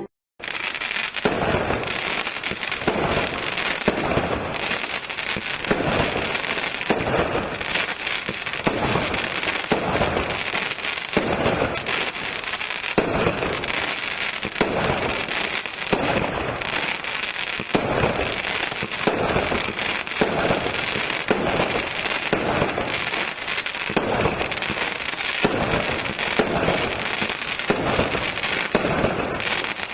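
A 36-shot vertical firework cake firing its tubes one after another, a launch thump roughly once a second, over dense crackling that runs throughout.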